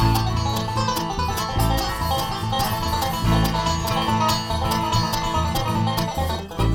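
Bluegrass band playing an instrumental passage, with rapidly picked acoustic string instruments over a steady bass line.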